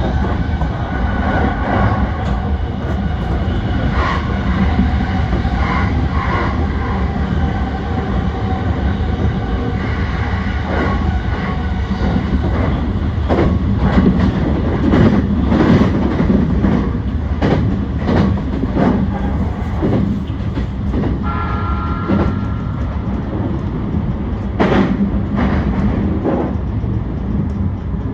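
E235-1000 series electric train running along the track: a steady rumble with wheel clacks over rail joints at uneven intervals.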